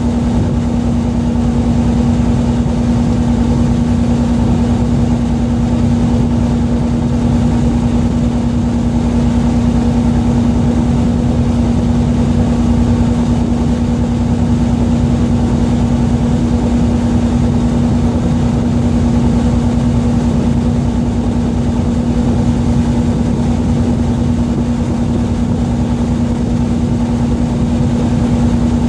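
A fishing boat's engine running steadily: a constant low drone with a steady hum over it.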